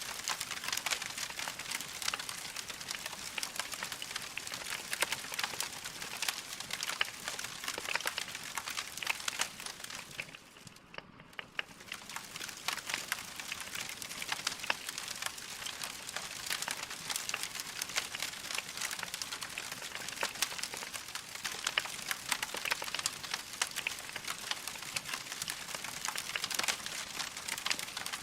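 Wood fire crackling steadily: a dense run of small pops and snaps over a soft hiss. It dips quieter for about a second near the middle.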